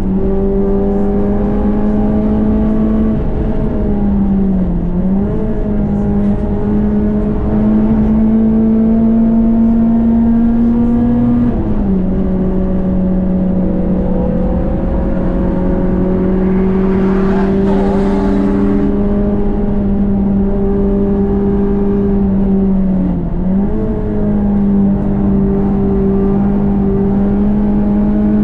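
Renault Clio 197 Cup's 2.0-litre four-cylinder petrol engine pulling hard at high revs, its note climbing slowly and dropping suddenly once about twelve seconds in. The note dips briefly twice, about four and twenty-three seconds in. A short rush of wider noise comes about eighteen seconds in.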